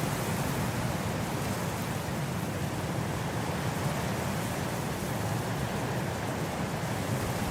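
Blizzard wind blowing, a steady, unbroken rushing noise heaviest in the low end.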